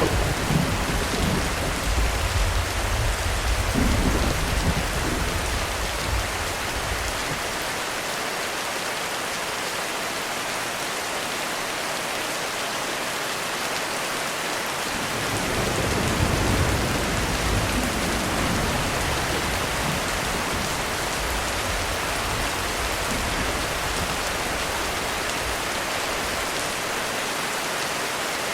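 Heavy rain falling steadily on a roof, with thunder rolling twice: a long rumble through the first six seconds and another from about fifteen to nineteen seconds in.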